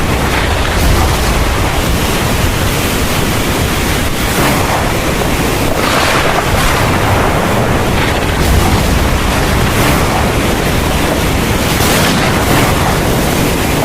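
Heavy thunderstorm rain falling steadily, with a deep thunder rumble underneath. The downpour swells briefly a few times.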